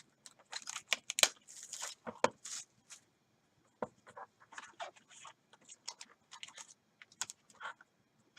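Sealed box and pack of baseball trading cards being torn open and handled: irregular tearing and crinkling rustles, with two sharp snaps in the first few seconds.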